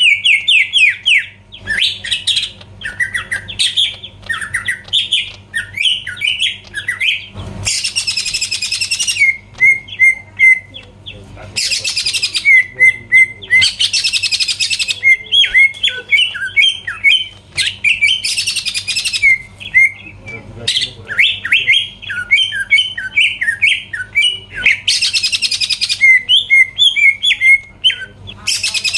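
A cucak ijo (green leafbird) singing loudly and continuously: fast runs of varied chirped and whistled notes, broken every few seconds by a harsh, hissing rasp about a second long. A faint steady low hum sits underneath.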